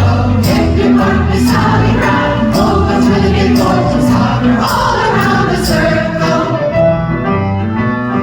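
Women's chorus singing with instrumental accompaniment over a steady beat.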